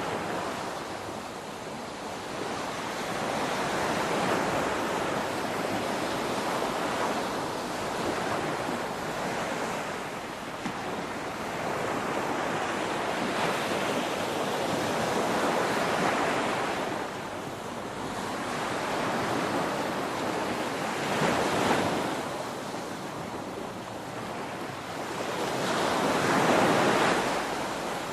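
Ocean waves breaking and washing on a shore, a steady rushing surf that swells and ebbs every few seconds, with the biggest wave crashing about three-quarters of the way through.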